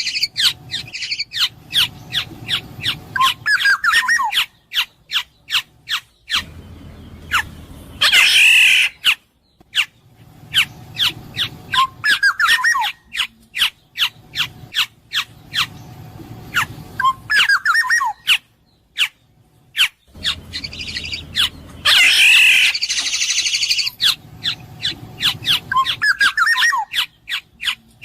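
Black-naped oriole (kepodang emas) calling: runs of short sharp notes and short falling whistles, broken twice by a loud harsh squawk. The same sequence repeats about every 14 seconds.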